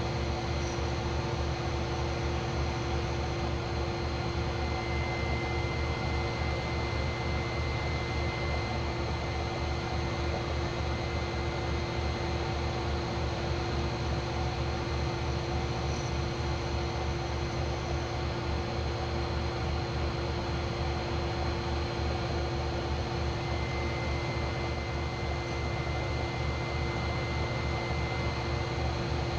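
A machine running steadily at constant speed, a hum and whine of several fixed tones over a fast low pulsing and hiss. A faint higher whistle comes in a few seconds in and again near the end.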